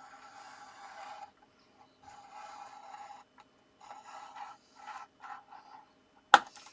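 Scoring tool drawn along the groove of a scoreboard, scoring a fold line into card stock: a series of scraping strokes, each about a second or less, with short gaps. Near the end comes a single sharp knock, the loudest sound.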